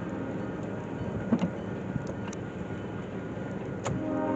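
Oregon Pacific Railroad freight train rolling past at a distance: a steady rumble with a few sharp clicks from the wheels and cars. The train's horn sounds again faintly near the end.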